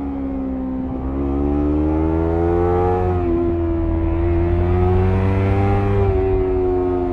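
Kawasaki Ninja 300's parallel-twin engine pulling hard under acceleration, its pitch rising steadily and dropping sharply at two upshifts, about three and six seconds in.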